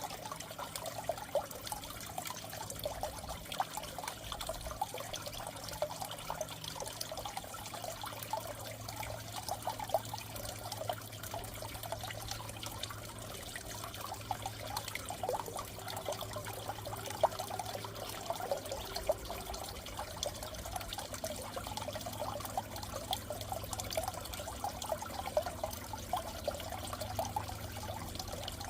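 Aquarium water trickling and bubbling steadily, with a low steady hum underneath.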